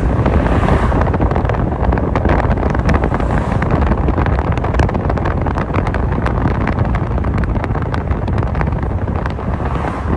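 Wind buffeting the microphone: a loud, steady rumble with frequent crackles.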